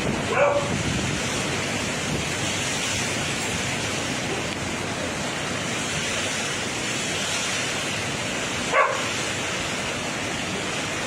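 Storm-force wind rushing steadily over the microphone. Two short pitched cries cut through it, about half a second in and again about nine seconds in.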